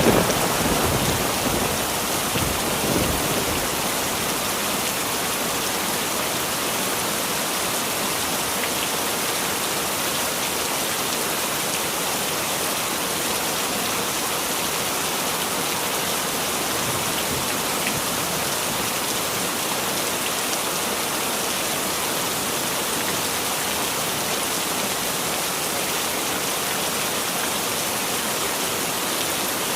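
Heavy rain falling steadily, a dense even hiss. The rumble of a thunderclap dies away in the first second or so, with a smaller swell about three seconds in.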